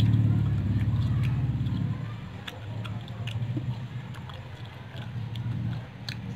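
Someone chewing food, with soft scattered mouth clicks, over a low steady rumble that is loudest for the first two seconds and then fades.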